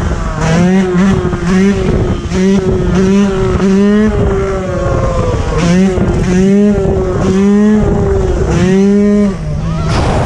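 Dirt bike engine revved in short bursts about a dozen times, its pitch climbing sharply and dropping back each time, over a steady rush of wind and road noise.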